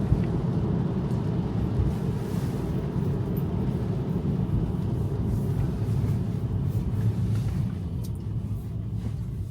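Steady low tyre and road rumble heard inside the cabin of a Tesla electric car driving on wet pavement, growing quieter near the end.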